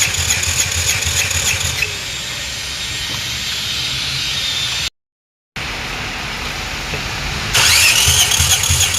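Car engine cranking on the starter motor without firing, its spark plug out and a compression gauge in the cylinder, with a fast even chugging of the compression strokes under the starter's whine. The sound drops out for half a second in the middle, and a fresh crank begins near the end with the whine rising as the starter spins up.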